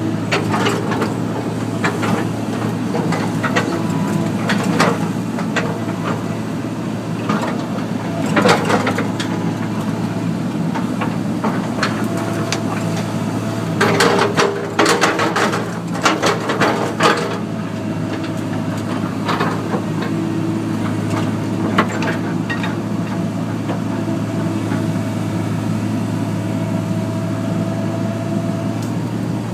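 Excavator's diesel engine running steadily under load, with a faint hydraulic whine coming and going. Clusters of sharp cracks and snaps come about a third of the way in and again about halfway through, as the branch is torn off.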